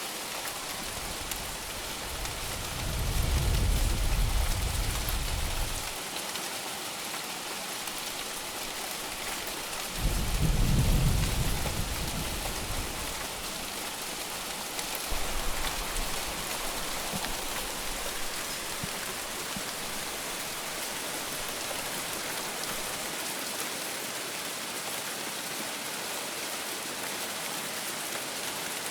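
Steady heavy rain falling, with low rumbles of thunder swelling up twice, about three seconds in and about ten seconds in, each lasting a few seconds, and a fainter rumble a little later.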